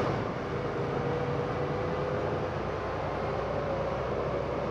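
Steady in-cab running noise of a semi-truck on the road: engine drone and road noise, with a faint steady whine.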